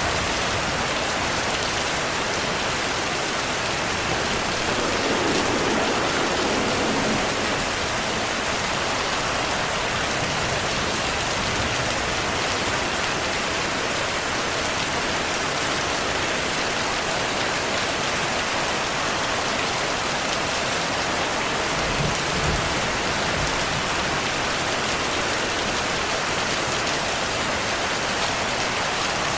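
Steady heavy rain falling and pattering on surfaces, an even hiss of rain noise.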